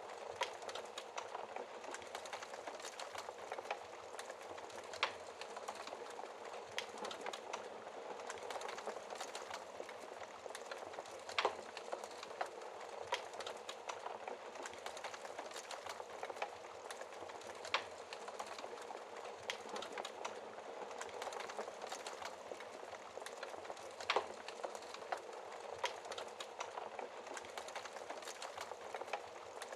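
Wood fire burning in a fireplace: a steady hiss of flames with constant small crackles and a louder pop from the burning logs every few seconds.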